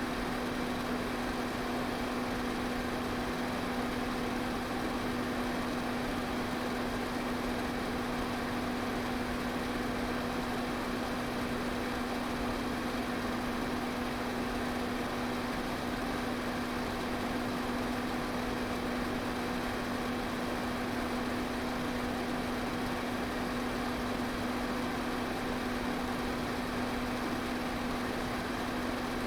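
Electric pedestal fan running steadily: a constant motor hum under an even rush of air from the blades, unchanging throughout.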